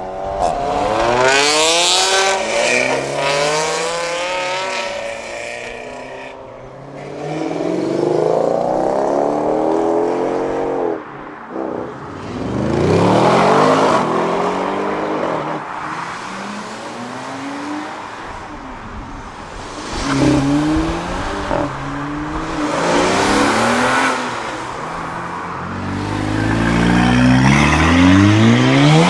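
Modified sports cars and hot hatches accelerating hard one after another, each engine rising in pitch through the revs and dropping at the gear changes, about six surges in all. The loudest and deepest-sounding car comes near the end.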